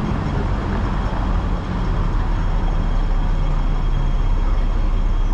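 Hong Kong double-decker tram running, a steady low rumble from its motor and wheels on the rails, with road traffic around it.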